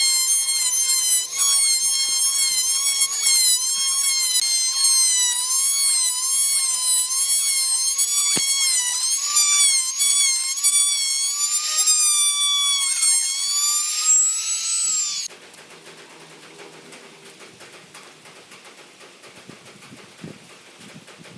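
A power tool's motor whining at high pitch, its pitch wavering up and down as the load changes, then stopping abruptly about three-quarters of the way through. A quieter background with a few light knocks follows.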